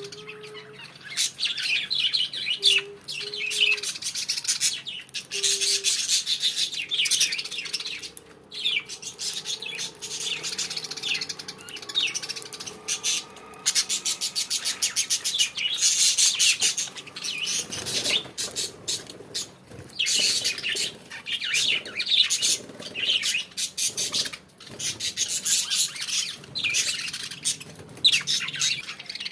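Pet budgerigars chirping and chattering almost continuously in quick high-pitched warbles.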